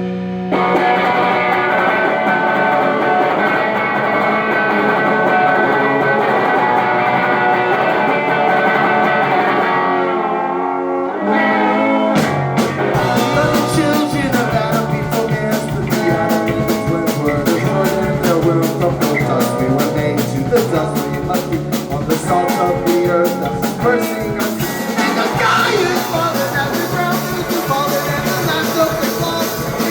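Live surf-punk band playing an instrumental song intro: electric guitar holds ringing chords for about eleven seconds, then drums and bass come in and the full band plays on.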